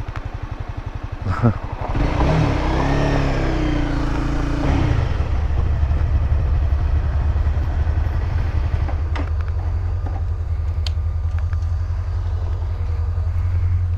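Honda CBR300R single-cylinder motorcycle engine idling with even pulses, a short clunk, then revving up as the bike pulls away and settling into a steady run.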